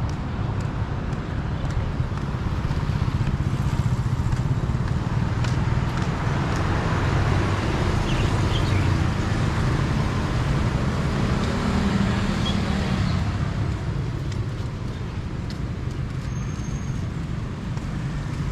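Street traffic: the engine rumble and tyre noise of passing vehicles, swelling through the middle and easing off in the last few seconds.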